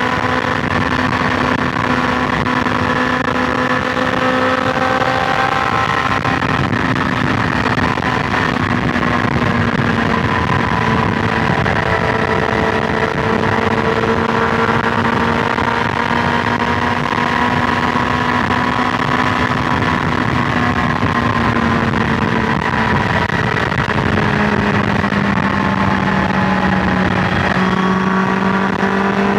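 BMW S1000XR's inline-four engine running steadily at highway cruising speed, over a constant rush of wind and road noise. Its pitch drifts gently, dropping a little about three-quarters of the way through, then rising again near the end.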